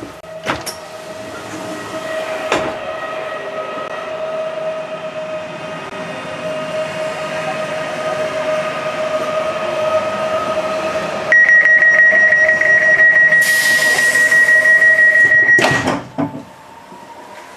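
Electric passenger train with a steady electrical hum that slowly grows louder. About eleven seconds in, a loud high warning tone sounds for about five seconds, with a hiss of air partway through, then cuts off with a knock: typical of a door-closing signal and the doors shutting.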